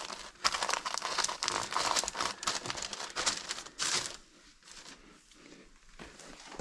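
Paper being handled and crumpled: a dense crinkling rustle that dies down about four seconds in, leaving only faint rustles.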